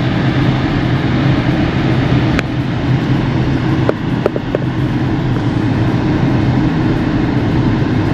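Steady low rumble of a moving vehicle, with a few faint clicks about halfway through.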